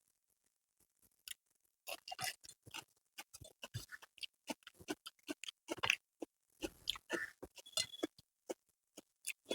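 Close-up eating sounds: irregular wet smacks and clicks of chewing rice and spicy chicken curry, starting about two seconds in and coming thick and fast.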